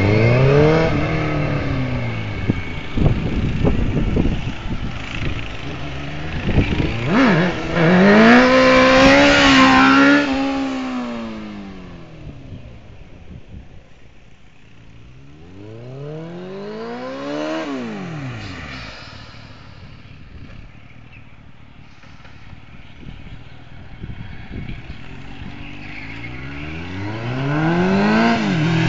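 Suzuki GSX-R 750 SRAD's inline-four engine revving up and down in several long swells of pitch. It is loudest and holds high revs about a third of the way in, drops lower and quieter through the middle, and climbs again near the end.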